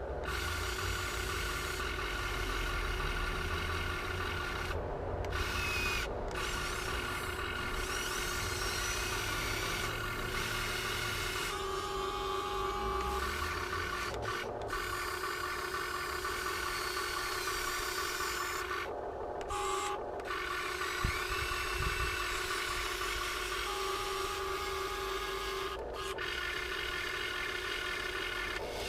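Electric motors and metal gearing of a Huina 1580 all-metal RC excavator whining as it runs. The whine starts and stops in stretches, with several short pauses, and its pitch shifts slightly between stretches.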